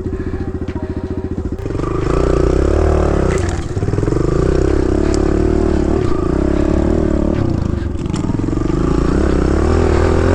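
Kawasaki KLX110 dirt bike's small single-cylinder four-stroke engine idling in gear, then throttled up about a second and a half in and ridden off. Its pitch rises and falls with the throttle, easing off briefly twice.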